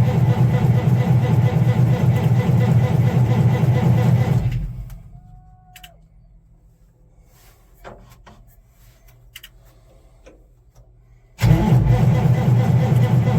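Allis-Chalmers 200 tractor's diesel engine being cranked over by the starter in a failed cold start: it turns over without catching, winds down about four and a half seconds in, and after a pause with a few light clicks the cranking starts again suddenly near the end.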